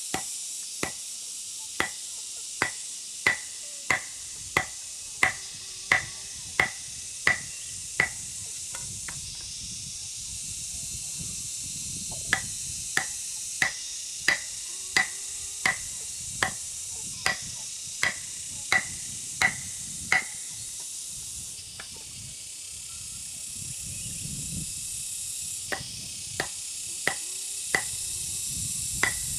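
Rhythmic sharp blows, about one and a half a second, typical of chopping with a blade, in runs of about eight seconds with pauses between them, over a steady high hiss.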